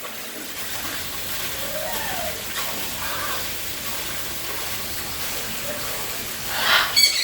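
Steady rush of falling water, with a bird squawking near the end.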